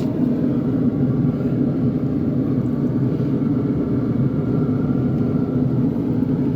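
A steady mechanical hum with a low rumble, holding even and unchanging throughout.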